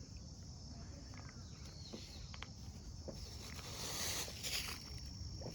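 Quiet outdoor ambience with a steady high insect drone, plus a few faint clicks and short rustles.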